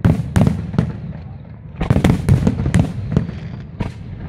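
Fireworks display going off: a string of sharp bangs, some a fraction of a second apart and bunched most thickly around the middle, over a low rumble.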